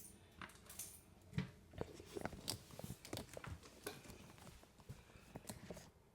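Faint, irregular small clicks, taps and crackles of hands handling parts and tools.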